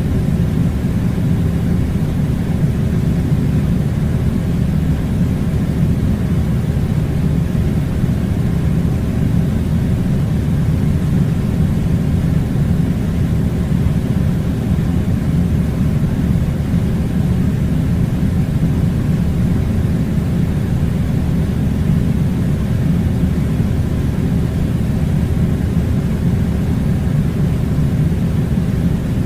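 Air conditioner running: a steady, unchanging low rumbling rush of air.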